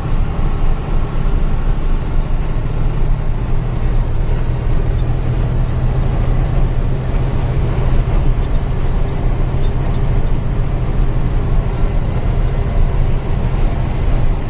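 Heavy truck's diesel engine running steadily as the truck drives on, a low drone heard from inside the cab.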